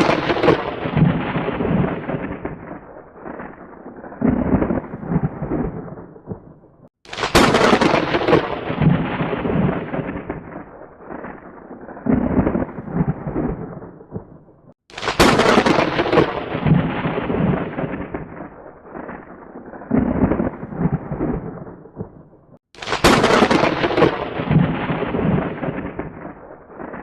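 Thunder: a sharp crack of thunder followed by a long rolling rumble that fades away, the same clap repeating about every eight seconds, four times in all.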